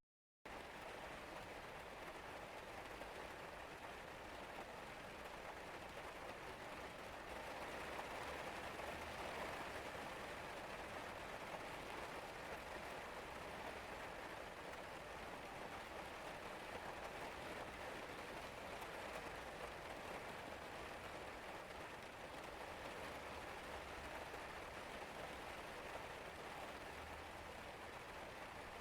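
Steady rain falling, the drops pattering on surfaces as an even hiss that swells slightly about eight seconds in. The sound cuts out for a split second right at the start.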